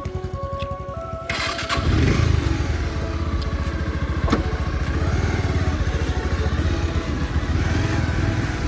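Background music for the first second or so, then a motorcycle engine comes in about a second and a half in and runs steadily with a low, fast pulsing.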